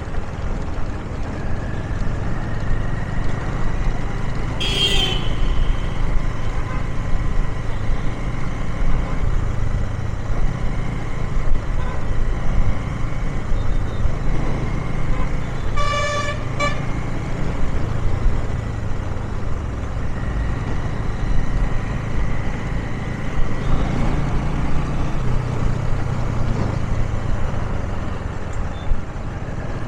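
Steady rumble of a motorcycle engine and road noise while riding in city traffic. About sixteen seconds in, a vehicle horn gives two quick toots, with a short high-pitched sound near five seconds.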